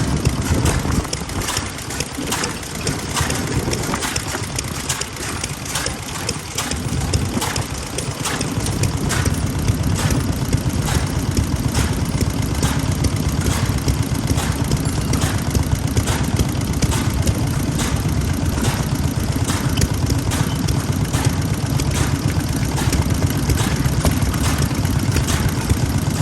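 Old stationary farm engines (hatsudōki) running, with a regular beat of sharp knocks about twice a second over a low rumble. The rumble grows louder about eight seconds in.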